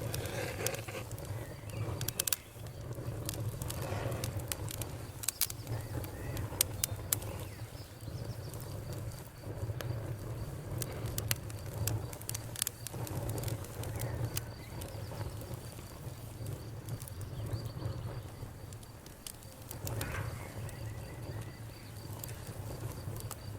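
Wood fire crackling in a fireplace: sharp pops and snaps, thickest in the first few seconds, over a steady low rumble.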